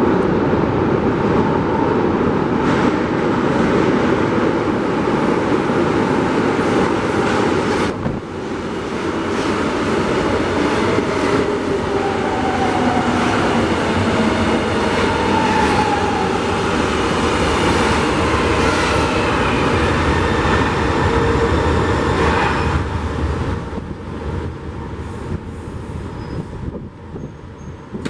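A São Paulo Metro Line 2 train running along the platform, loud and steady, with whining tones that glide up and down partway through; the noise fades over the last few seconds as the train moves away.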